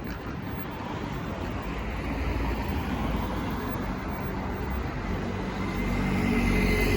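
City street traffic: a motor vehicle's engine and tyre noise building as it approaches and passes, loudest near the end.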